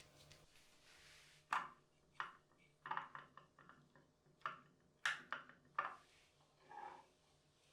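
Light handling sounds: about six sharp knocks and clicks at irregular intervals, with a softer rustling sound near the end.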